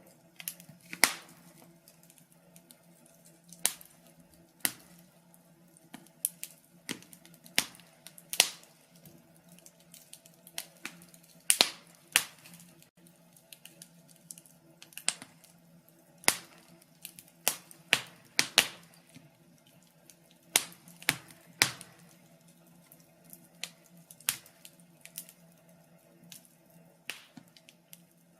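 Wood fire crackling in a fireplace: irregular sharp pops and snaps, one or two a second and uneven in loudness, over a faint low steady hum.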